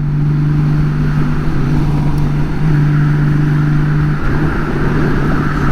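Honda Gold Wing's flat-six engine running at a steady cruise under wind and road rush. The steady engine note breaks off briefly about four seconds in and then returns.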